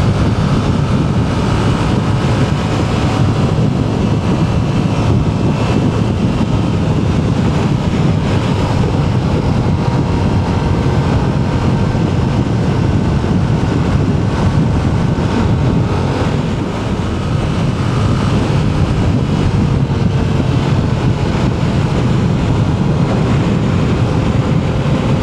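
Motorcycle riding at a steady speed: engine running under heavy wind rush on the microphone, with a brief dip in level about two-thirds of the way through.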